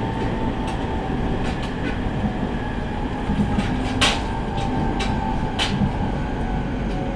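Cabin running noise of an E501 series electric train: a steady rumble with a faint motor whine, broken by sharp irregular clacks as the wheels pass over rail joints and points.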